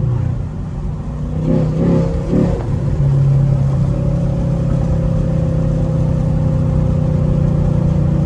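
Straight-piped Camaro SS V8 exhaust droning while driving, heard from inside the car. It wavers briefly about two seconds in, then settles into a steady, slightly louder drone.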